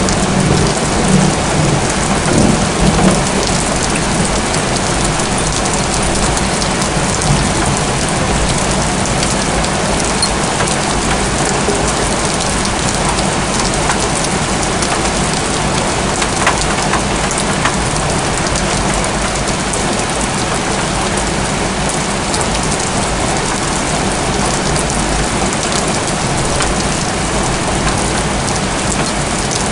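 Steady rain pouring onto roofs in a thunderstorm, a continuous even hiss. A low thunder rumble dies away in the first few seconds.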